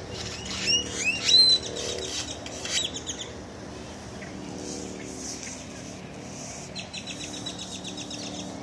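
Birds chirping, with a quick flurry of sweeping calls in the first three seconds and a rapid trill near the end, over a faint steady low hum.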